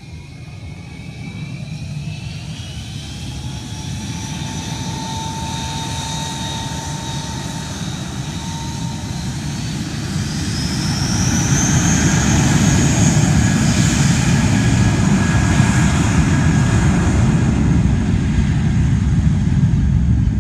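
Airliner engines spooling up: whining tones climb in pitch over the first dozen seconds while the engine noise builds to a loud, steady rumble, as for a takeoff run.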